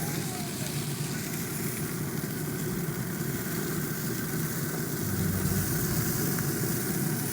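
Chicken sizzling on a grill, a steady hiss with a low, even hum underneath.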